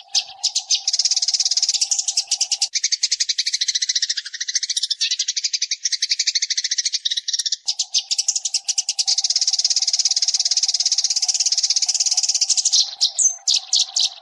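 Eurasian tree sparrow song: a fast, continuous chatter of rapid high notes, with a brief clearer note near the end.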